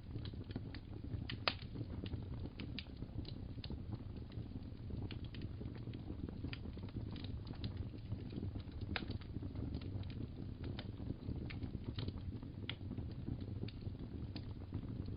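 Fireplace fire crackling: a steady low rumble with irregular sharp pops and snaps, one stronger pop about a second and a half in.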